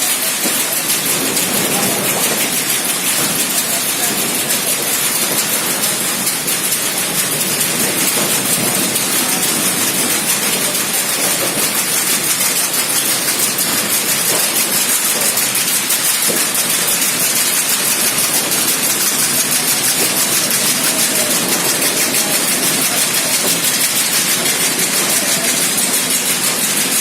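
Steady industrial machinery noise from a plastic-bottle conveying and loading line: a continuous loud hiss with fine rapid ticking and rattling throughout.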